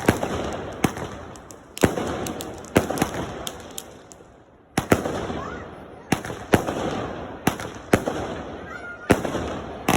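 Fireworks going off: a string of sharp bangs about once a second, each trailing off in crackle and echo.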